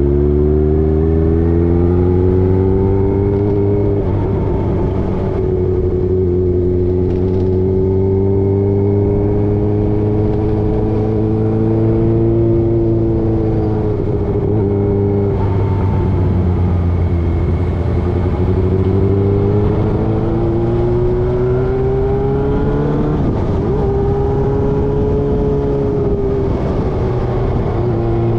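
Motorcycle engine running under way, its note rising and falling several times as the revs change, with short breaks that fit gear changes, over a steady low rumble.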